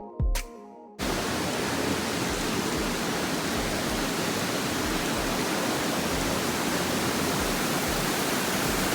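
Electronic music with a few drum hits, cut off about a second in by a steady, even rushing noise that holds at one level.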